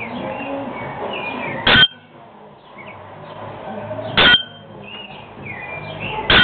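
Bare-throated bellbird giving its loud, short, metallic, bell-like 'tonk' call three times, about two and a half seconds apart, each ringing briefly. Fainter chirps and sliding whistles of other small birds come between the calls.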